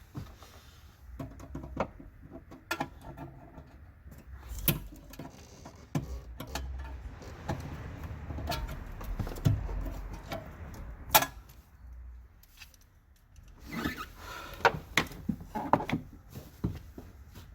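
Irregular clicks, knocks and rubbing of hand work on the car: tools and parts being handled, with a few sharper metallic clicks.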